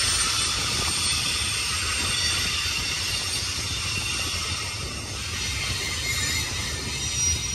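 Freight train cars rolling past, a steady rumble and rush of steel wheels on rail.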